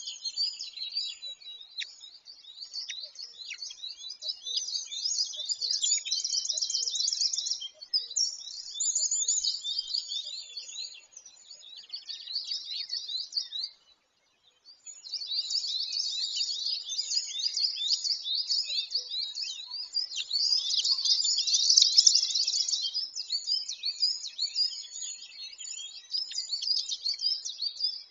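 Birds chirping and trilling in a dense, rapid, high-pitched run of calls, breaking off for about a second near the middle before starting up again.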